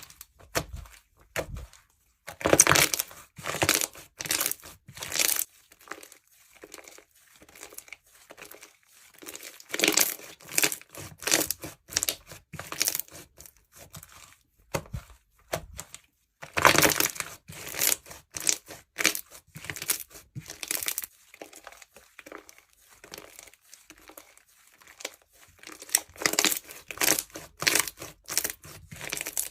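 Bead-filled jewelry slime being squished, giving rapid crinkling, crackling clicks in several bursts with quieter gaps between.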